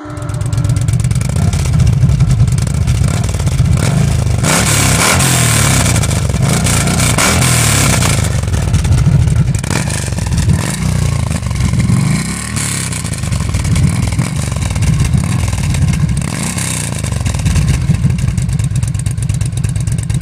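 Motorcycle engine running loud through its exhaust and being revved up and down, with brighter, harder stretches of revving several times.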